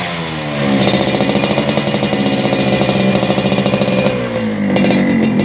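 Yamaha RX-King two-stroke motorcycle engine being revved through a racing exhaust. The pitch dips at first, climbs about a second in and holds high, then falls back to a lower run near the end.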